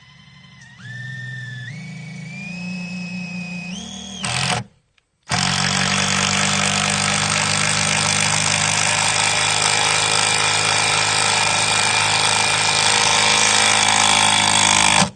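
Power drill driving a 4-inch screw into wood. The motor speeds up in steps for about four seconds, stops briefly, then runs louder and steadier under load for about ten seconds before cutting off.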